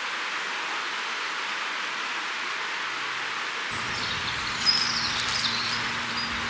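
Steady outdoor rushing noise of a windy creekside. About halfway a low rumble of wind on the microphone sets in, and a few short high chirps follow.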